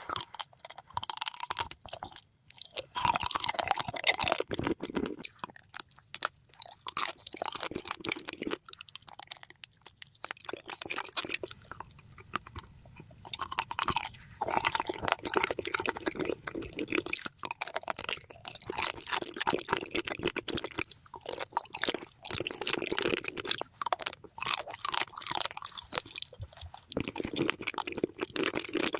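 Close-miked chewing and biting of wax candy, with irregular crunching, crackling and wet mouth sounds and a few short pauses.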